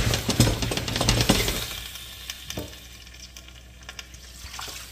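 Fish trimmings and vegetables sizzling as they are stirred in a steel stockpot, with scraping and clinks. This stops abruptly about a second and a half in, leaving a few light clinks, and water starts pouring into the pot near the end.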